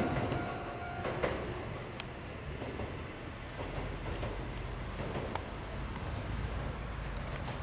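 Shizuoka Railway A3000-series electric train pulling out of a station. A steady whine stops about a second in and the sound drops a little. Wheel-on-rail rumble with a few scattered clicks follows.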